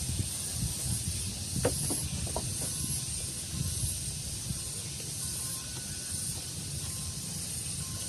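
Outdoor ambience: breeze rumbling on the microphone under a steady, high-pitched hiss, with a few faint short bird chirps about two seconds in and faint thin whistles later.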